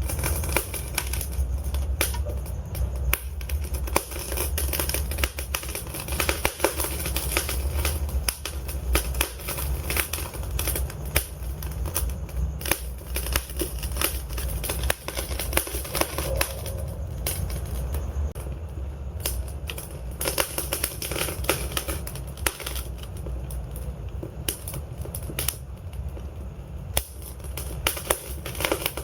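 Wood fire in a fireplace crackling and popping, with dense irregular snaps over a steady low rumble of the burning logs.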